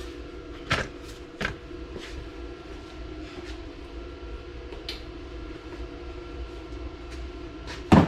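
A few sharp knocks and clanks, the loudest just before the end, over a steady low hum.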